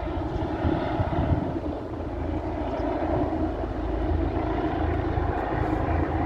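Police helicopter overhead, a steady drone of rotor and turbine that slowly grows louder.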